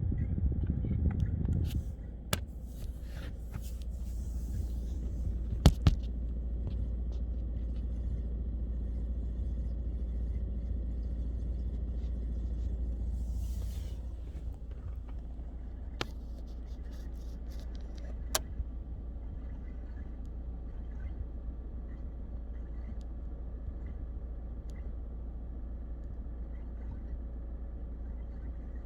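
Audi A6 C8 climate-control (air-conditioning) unit making a faint water-like gurgling noise over the car's steady low hum, heard in the cabin, with a few sharp clicks. The service centre calls the noise normal.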